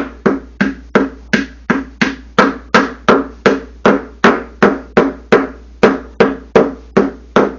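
A new shaft seal being tapped into a washer's rear tub bearing housing: a steady run of sharp taps, about three a second, worked around the seal's edge. Each tap rings briefly.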